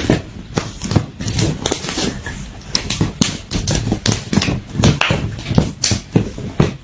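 A quick, irregular series of sharp taps and knocks, several a second.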